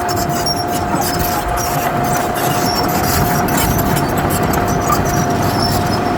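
Diesel engine of a heavy earthmoving machine running steadily, with a constant high-pitched whine held over the engine rumble.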